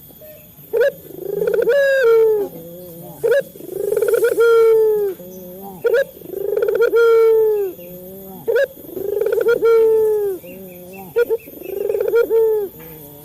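Male Barbary dove (burung puter) cooing: each call is a short note followed by a long, slightly falling coo, repeated about every two and a half seconds, five times.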